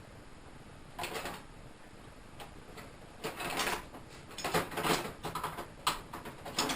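Hand tools clicking and scraping metal on metal in a handful of short, irregular strokes, most of them from about three seconds in, while a puller is being worked on a Kohler engine.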